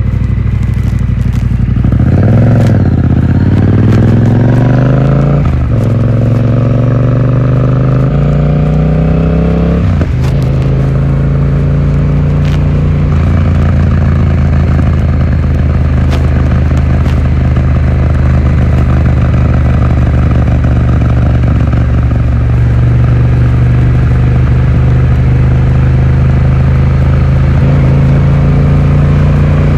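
Yamaha XSR700's parallel-twin engine through an Akrapovic exhaust, accelerating hard through two gear changes, its pitch rising and then dropping at each shift, then settling to a steady cruise for the rest of the time. It is heard from a phone in the rider's pocket.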